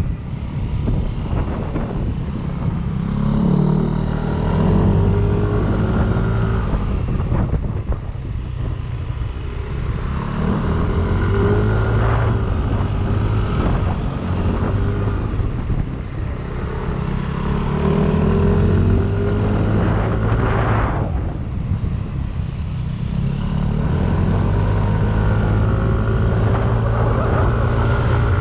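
Yamaha Aerox 155 scooter's single-cylinder engine under way, revving up and easing off several times as the throttle is opened and closed, over a steady low rumble.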